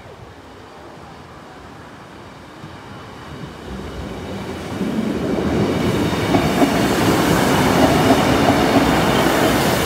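Northern Class 150 diesel multiple unit approaching along the track, growing louder from about three seconds in, then running past close by over the level crossing for the last few seconds, its engine and wheels on the rails.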